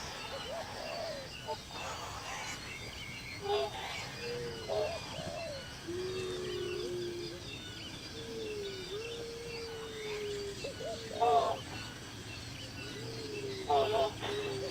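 Birds calling: long, level whistled notes of about a second each, between short, sharper calls.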